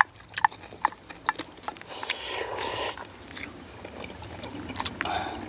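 A few light, sharp clicks and taps, then a brief rushing, rustling noise about two seconds in.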